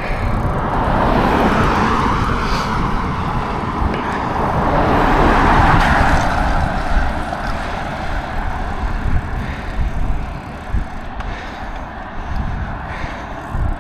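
Road noise heard while riding a bicycle: wind buffeting the microphone with a low, uneven rumble, and a passing car whose tyre noise swells to a peak about six seconds in and then fades.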